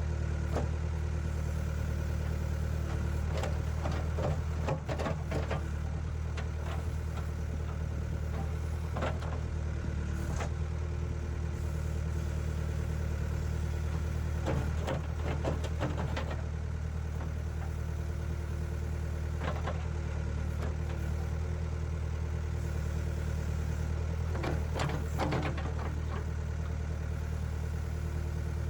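Engine of a ditch-clearing machine running steadily, with a few short bursts of clatter and crackling during the work.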